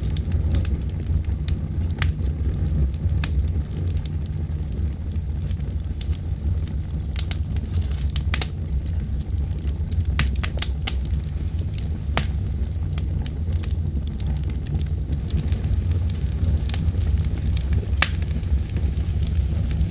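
Campfire crackling, with sharp pops at irregular intervals over a steady low rumble of wind.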